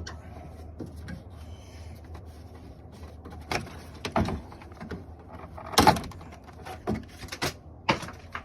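About half a dozen knocks and clacks of hard parts being handled, the loudest about six seconds in, over a steady low hum.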